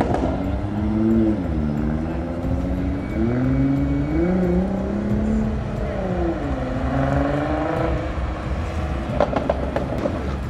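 A car engine revving up and down several times, its pitch climbing and falling in repeated swells. About nine seconds in there is a short run of sharp cracks.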